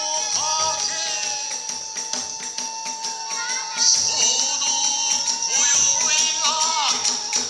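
Iwami kagura festival music: a bamboo flute holds a long note with pitch bends over jangling small hand cymbals and regular drum strokes, growing louder about four seconds in.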